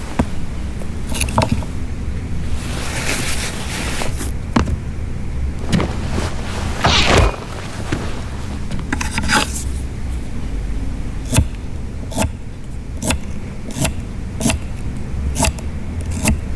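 Crackling fire: sharp, irregular pops and snaps over a steady low rumble, the pops coming thicker in the second half.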